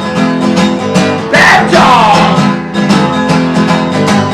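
Acoustic guitar strummed in a steady rhythm, with a man's voice singing a wordless, wavering "whoa" over it about a second in.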